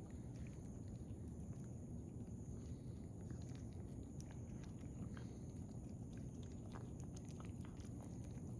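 Stray cats eating wet cat food: small, irregular wet chewing and smacking clicks over a steady low background noise.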